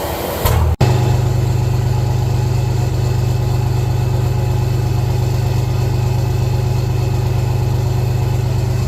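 5.9 Cummins turbo-diesel running steadily with a low, even drone. The sound breaks off for an instant less than a second in, like a cut between clips.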